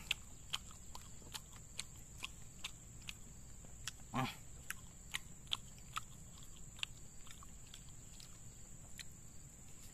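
A person chewing martabak with soft mouth-smacking clicks throughout, and a brief hum of enjoyment about four seconds in. A steady high-pitched insect drone runs underneath.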